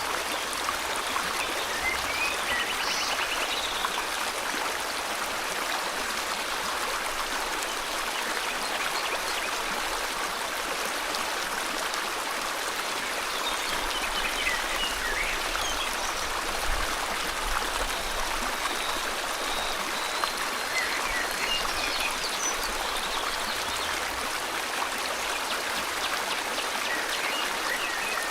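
Steady rushing flow of river water, with a few faint bird chirps and short twittering calls heard over it a few times.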